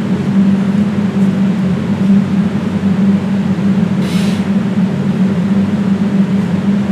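A person blowing their nose once, a short hissing blast about four seconds in, over a steady loud mechanical hum.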